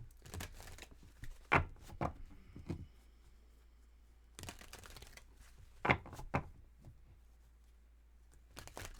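Tarot cards being handled: a brief rustle of shuffling about halfway through, with several sharp card snaps and taps before and after it.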